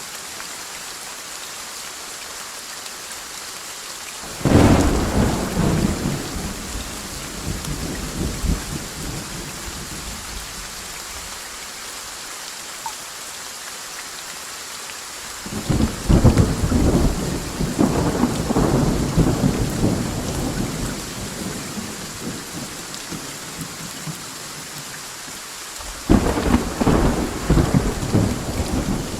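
Steady heavy rain with three rolls of thunder: a sudden crack about four seconds in that rumbles away over several seconds, a long rolling rumble from about a quarter of a minute in, and another sharp clap near the end.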